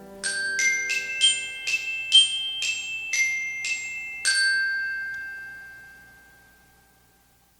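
Short closing jingle of bell-like mallet-percussion notes: a run of about ten struck notes, the last one ringing out and fading away.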